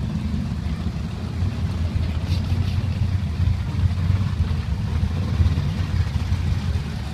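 Drag cars' engines running at the starting line, heard from down the strip as a steady low rumble.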